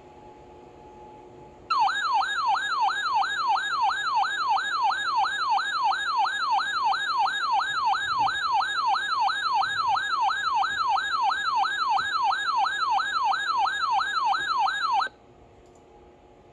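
Electronic warbling alert tone, sweeping rapidly up and down about two and a half times a second, that starts suddenly and cuts off after about thirteen seconds. It is the attention signal that announces a severe thunderstorm warning broadcast.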